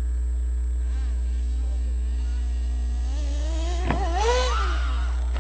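Radio-controlled car's motor whining as it is throttled: the pitch rises steeply, with a sharp knock about four seconds in, then falls away. A steady low hum runs underneath.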